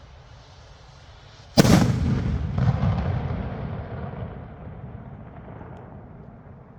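Firework rocket bursting overhead with a single loud bang about one and a half seconds in, followed by a long rumbling echo that fades away over the next few seconds.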